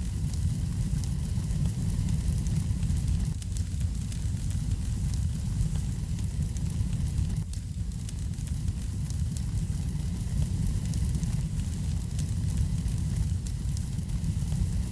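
Wood fire burning in a fireplace: a steady low rumble under many small, quick crackles and pops.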